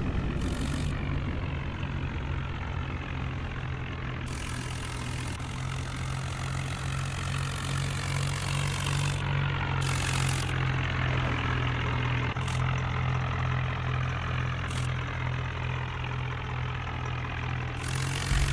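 Tractor engine running steadily at a low, even speed, with a few short noises over it.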